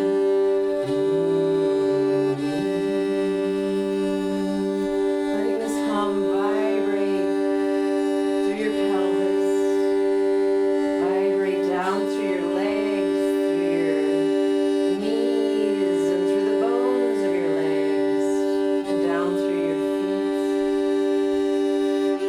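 Sound-healing music: a steady drone holding two main notes, with a wordless voice sliding up and down in slow arching phrases over it.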